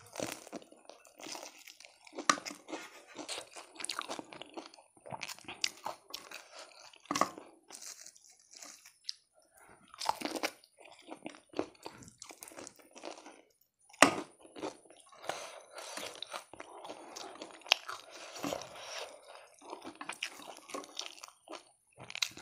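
Close-miked chewing and crunching of fried chicken: irregular crunches with chewing in between. There is a short pause a little past halfway, then a sharp crunch.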